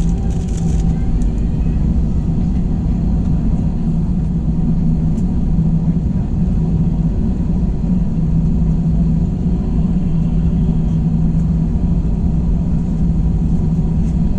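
Steady engine rumble with a constant low hum, heard inside the cabin of an Airbus A321 airliner.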